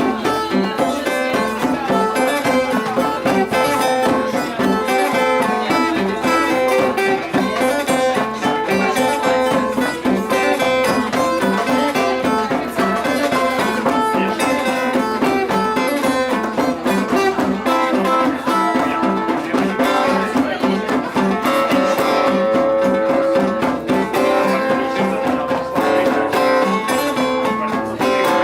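Guitar music without singing: an instrumental passage with continuous plucked and strummed notes.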